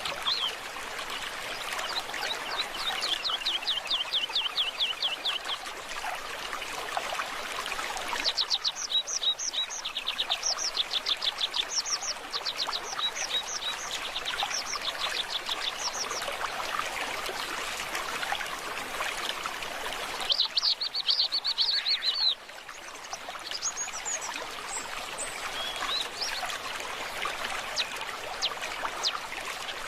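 Mountain stream water flowing steadily while songbirds sing over it in several bouts of rapid, repeated high notes, with one fast, loud trill about two-thirds of the way through. The water sound changes abruptly a few times.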